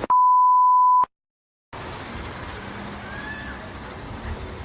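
A one-second, single-pitch censor bleep, followed by a moment of dead silence, then steady background noise with a faint rising whistle about three seconds in.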